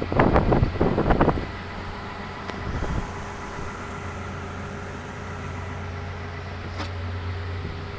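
Case 210 excavator's diesel engine idling with a steady hum. Irregular bursts of rattling noise come over it in the first second and a half.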